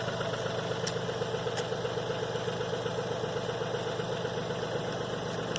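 Tractor engine running steadily, with an even mid-pitched drone that holds without change.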